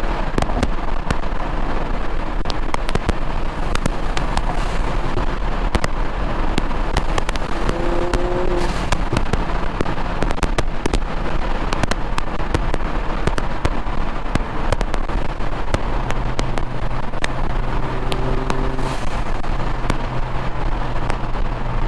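Mini Cooper JCW R56 with a big-turbo upgrade, its 1.6-litre turbocharged four-cylinder driving at motorway speed. Loud, steady running noise with frequent sharp cracks and pops scattered throughout.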